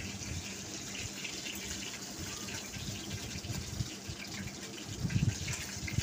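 Fish frying in hot oil in a pan: a steady sizzle with small crackles, and a few low bumps about five seconds in.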